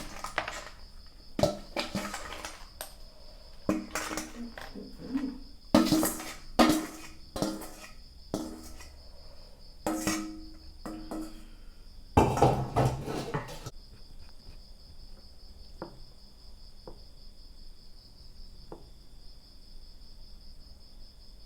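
Dishes and utensils clattering and knocking for the first thirteen seconds or so, loudest near the middle, then only a few faint clicks. Insects keep up a steady high chirping throughout, alone in the second half.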